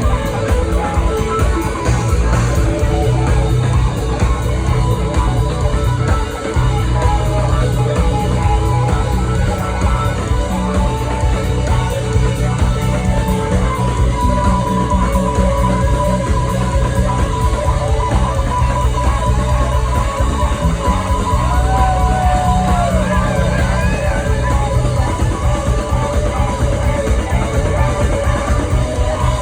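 Live jam band playing loud and steadily, with a heavy low end; about halfway through a long held lead note comes in above the band and bends in pitch shortly after.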